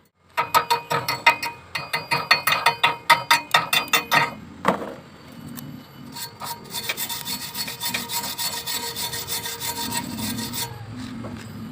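Steel workpiece being scraped in rapid strokes, about five a second, each stroke making the metal ring. After a short pause comes about four seconds of steady, high-pitched scratching, typical of cleaning up a weld.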